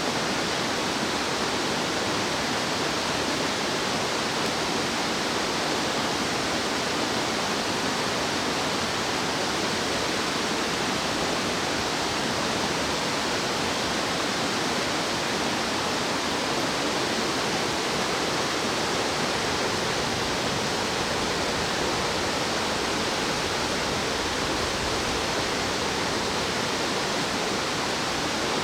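Steady rush of flowing stream water, an even hiss with no bird calls standing out above it.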